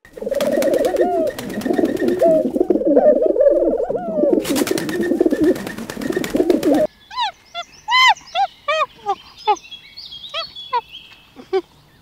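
Domestic pigeons cooing in a continuous low warble, with fast wing flapping as they crowd onto a hand. About seven seconds in this stops and gives way to a series of short, high chirping calls.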